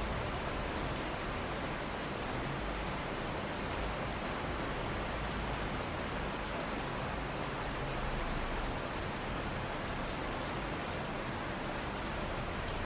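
Steady rain: an even hiss of falling water, with faint ticks of single drops now and then.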